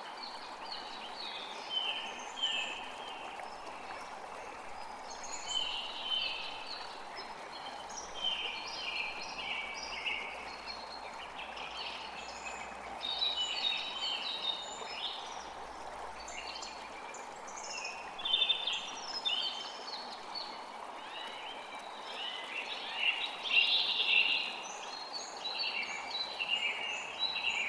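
Many birds chirping and singing at once: short, falling calls overlapping thickly, over a steady background hiss.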